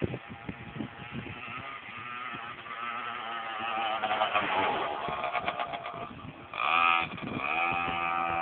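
Small 50cc dirt bike engine running under throttle, its pitch climbing through the middle, then a sudden louder burst about six and a half seconds in before it holds a steady high note.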